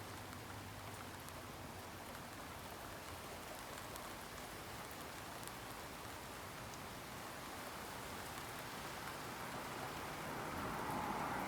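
Steady light rain falling, with the faint patter of drops; it grows a little louder near the end.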